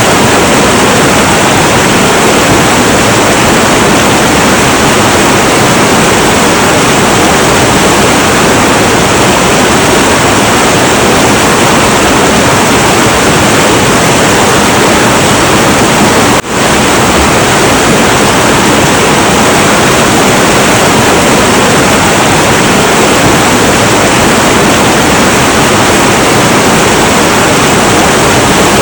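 Loud, steady rushing of a heavy, turbulent river, broken by a momentary dropout about halfway through.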